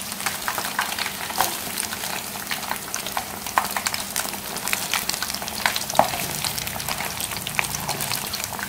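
Crumb-coated chicken pieces deep-frying in hot oil in a pan: a steady sizzle, with frequent small pops and crackles.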